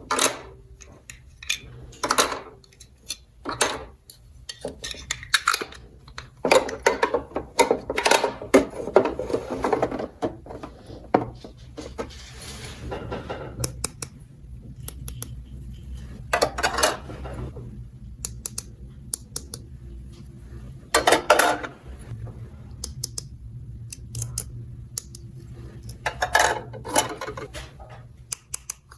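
Small plastic toy pieces and miniature dishes clicking and clattering as they are handled and set down, with several stretches of rustling.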